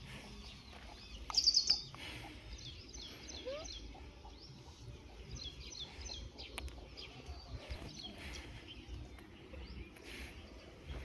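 Small birds chirping and calling again and again, short high chirps scattered throughout, with one louder burst of calls about a second and a half in.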